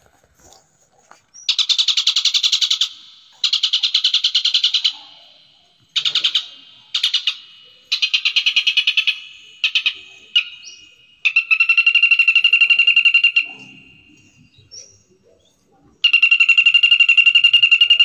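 A songbird singing in repeated phrases of fast, pulsed trills, each one to two seconds long with short pauses between. Two longer phrases, from about the middle and near the end, hold a steadier high note.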